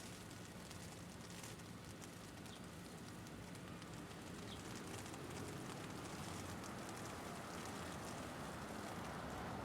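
Hail pattering in many faint, scattered ticks over a steady low rumble of city traffic. The traffic noise grows gradually louder through the second half.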